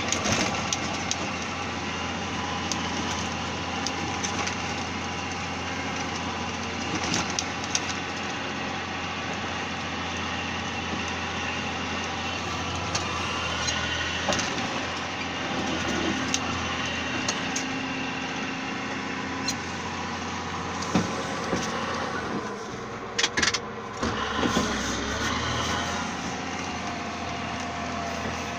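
Caterpillar motor grader's diesel engine running steadily, with scattered sharp clanks and knocks.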